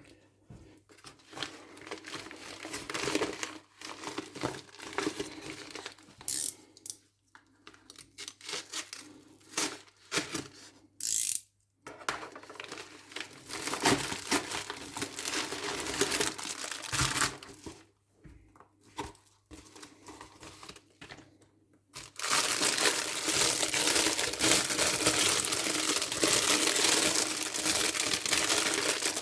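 Plastic packaging being torn open and crinkled by hand: irregular rustles and short rips, turning into louder, continuous crinkling about three-quarters of the way through.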